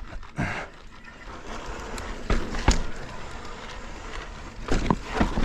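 Mountain bike ridden slowly over technical slickrock: several sharp knocks and clunks from the bike over a steady hiss, the loudest a pair about two and a half seconds in and a cluster near the end.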